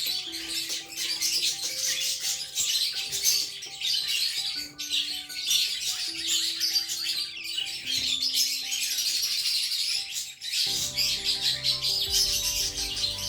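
Budgerigars chirping and chattering continuously, over background music of held notes that fills out with bass near the end.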